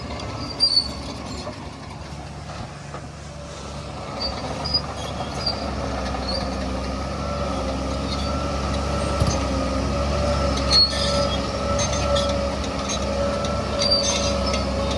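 Shantui DH17C3 crawler bulldozer working, its engine running with a steady high whine that grows a little louder partway through, and a few short metallic clanks from its tracks.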